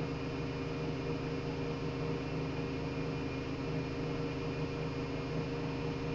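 Matura Sigma 9260 washing machine running steadily: a constant motor hum with several steady tones over a hiss, without pauses or changes.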